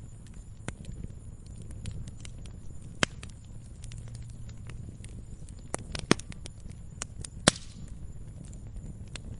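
Campfire crackling: wood burning with irregular sharp pops and snaps over a low steady rumble. One louder pop comes about three seconds in, and two more between six and eight seconds.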